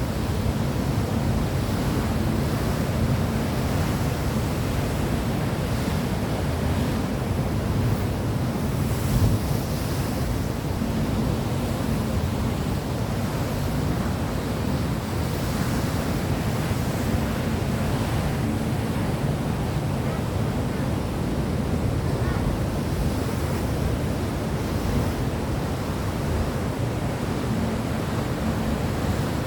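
Steady, even rushing noise, heaviest in the low range, with a faint steady hum underneath.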